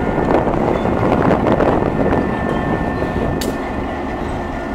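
Diesel locomotive and passenger cars of a train rolling past, a steady rumble of wheels on rail with a sharp click about three and a half seconds in; the sound eases slightly toward the end.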